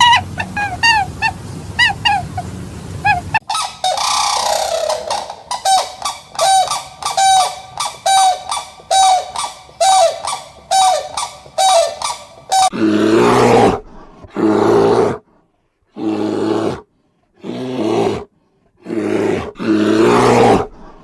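Animal calls in three spliced runs: quick repeated short pitched calls, then an even series of pitched calls, then from about halfway on loud, rough, low calls about a second long with silent gaps between them.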